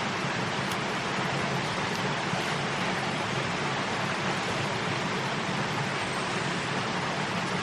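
Steady rushing of water, an even hiss with no breaks or distinct events.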